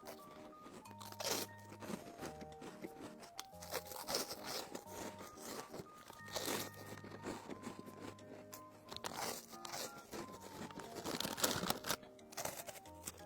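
Crunchy biscuit being bitten and chewed close to the microphone, many sharp crunches over background music.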